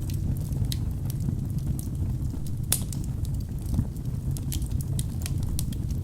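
Wood fire burning in a fireplace: a steady low rumble of flames with irregular sharp crackles and pops from the burning logs, one louder pop a little under three seconds in.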